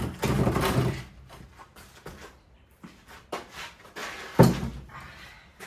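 Pieces of wooden timber being handled and worked into place. There is a scraping, rubbing noise lasting about a second at the start, a few light clicks and taps, then one heavy wooden knock near the end.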